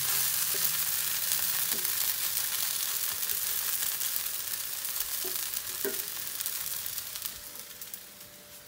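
A dosa sizzling on a hot tawa griddle: a steady frying hiss that fades away over the last second or two.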